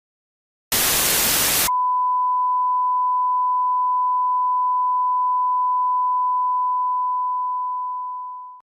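A one-second burst of loud television static, then an abrupt switch to a single steady beep tone. The tone holds level for about seven seconds and fades out at the end, like a broadcast test tone after an alert.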